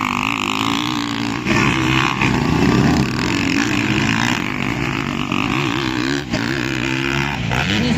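Several motocross bike engines revving up and down repeatedly, their pitch rising and falling as the throttle is worked.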